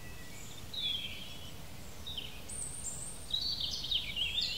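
Birds chirping over a steady low background rumble, with a denser run of chirps in the last second or so.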